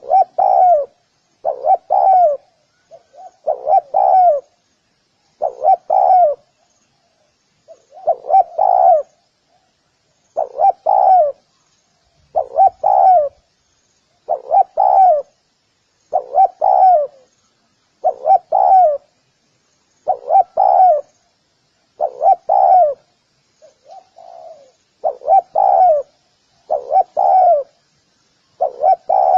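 Spotted dove cooing: a short phrase of two or three coo notes, repeated about every two seconds.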